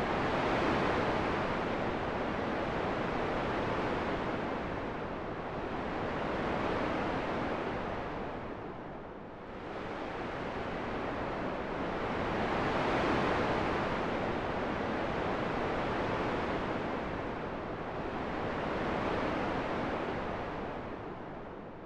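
Wind blowing in a steady rush that swells and eases every few seconds, dipping lowest about nine seconds in and again at the very end.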